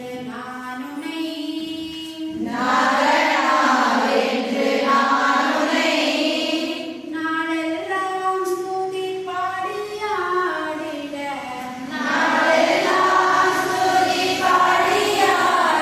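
A group of voices singing a melody together, with long held notes that rise and fall in pitch; it swells louder a few seconds in and again near the end.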